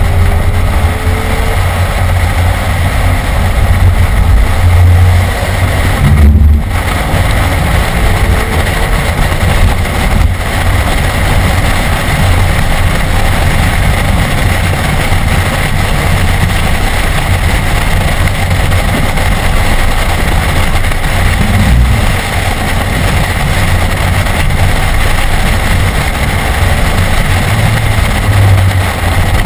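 BMW E46 M3's S54 straight-six running hard under way, heard from inside the cabin with loud wind and road noise. The sound shifts briefly around six seconds in and again near ten seconds in.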